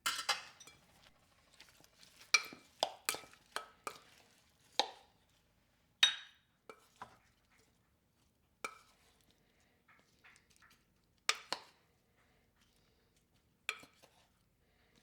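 Dishes and glassware clinking and knocking as they are handled and set down: a string of irregular, sharp clinks, some with a brief ring.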